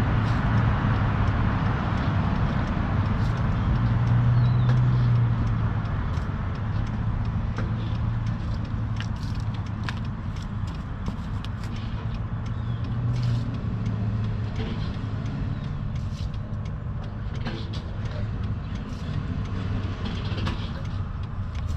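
Semi truck's diesel engine idling with a steady low hum, swelling slightly a few seconds in, with light scattered clicks over it.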